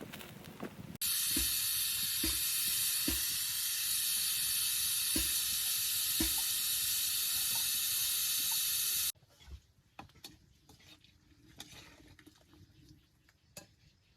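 Food frying in hot oil: a loud, steady sizzle that starts abruptly about a second in and cuts off sharply about nine seconds in, with a few soft knocks underneath. Quieter clinks and small knocks follow.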